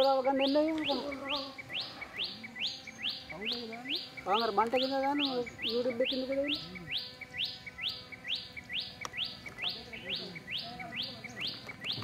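Bird calling: a rapid, evenly repeated series of short rising chirps, about two to three a second, over softer lower calls that come and go.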